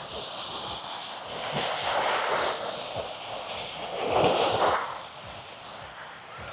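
Sea surf on a sandy beach, waves washing in and drawing back, swelling twice.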